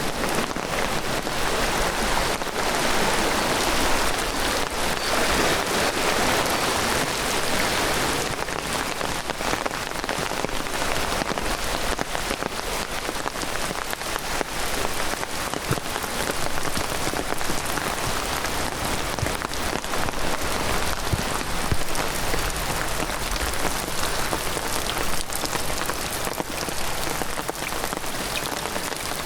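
Heavy downpour of rain with dense pattering of drops, steady throughout, a little heavier in the first several seconds.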